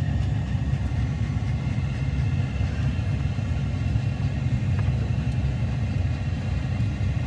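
Pickup truck engine running steadily at low speed while driving, a continuous low rumble.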